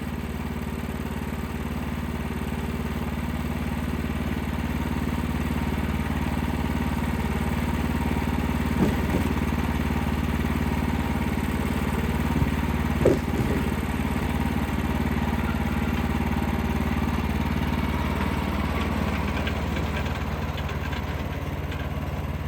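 Wood-Mizer LX55 portable band sawmill's 14 hp engine running steadily, growing a little louder over the first several seconds. A few sharp knocks come about nine and thirteen seconds in.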